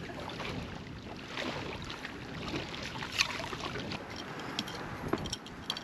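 Steady wind noise in a snowstorm, with scattered light clicks and taps and one sharper click about three seconds in.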